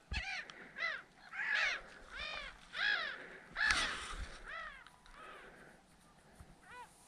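A bird calling over and over: a run of short calls, each rising and falling in pitch, about one every second, then a pause and another call near the end.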